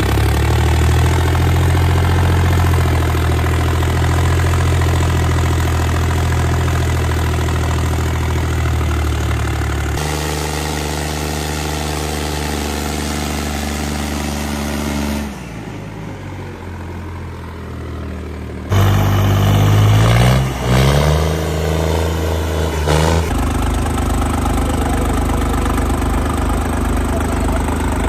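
Tractor diesel engine running, mostly at a steady idle, with a brief rev around two-thirds of the way through where the pitch climbs and drops back. The engine sound changes abruptly several times, with a quieter stretch just before the rev.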